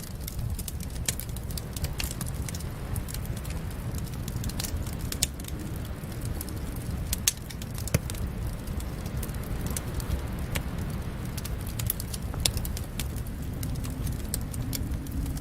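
Wood fire in a fireplace crackling, with irregular sharp pops over a steady low rumble; a few louder pops stand out about halfway through.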